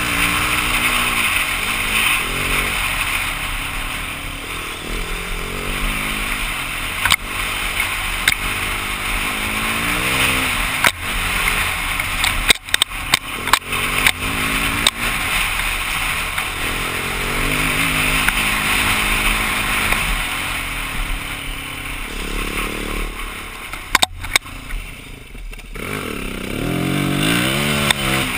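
BMW G450X single-cylinder four-stroke dirt bike engine revving up and easing off over and over as the bike is ridden, under steady wind noise. Sharp knocks and clatter come in a cluster around the middle and again near the end.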